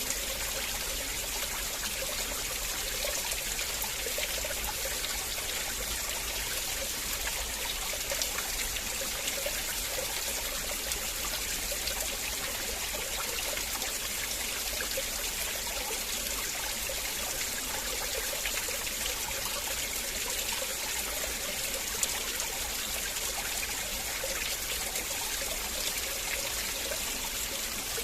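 River water flowing and trickling steadily over stones, an even rush of water with small splashes and gurgles.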